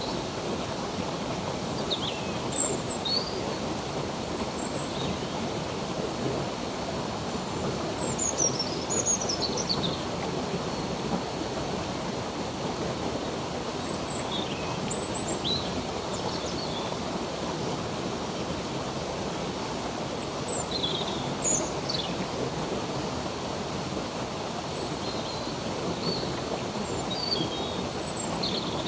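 Steady rush of a flowing stream, with birds chirping now and then above it in short high calls and quick glides.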